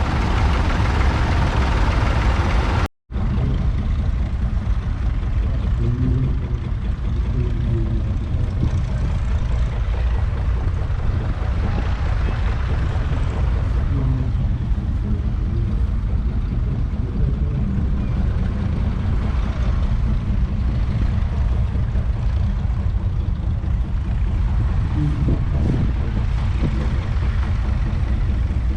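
1954 Allis Chalmers Model B tractor's 2.1-litre four-cylinder petrol engine running steadily. The sound cuts out briefly about three seconds in.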